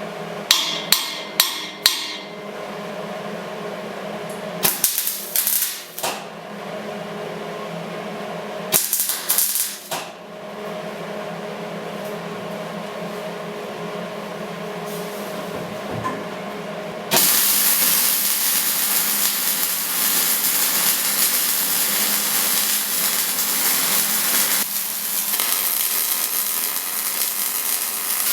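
Metal struck several times in quick clusters, sharp clanks on steel. Then, about seventeen seconds in, a loud steady crackling hiss starts abruptly: a MIG welder's arc running a weld on steel.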